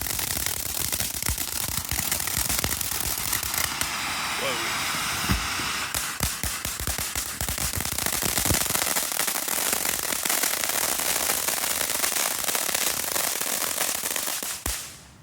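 TNT Spirit of Freedom fireworks fountain spraying, with dense continuous crackling and popping. It stops suddenly near the end as the fountain burns out.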